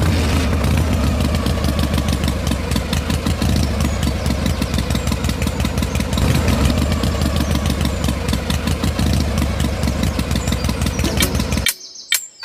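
Tractor engine running with a steady rapid chugging, stopping abruptly near the end.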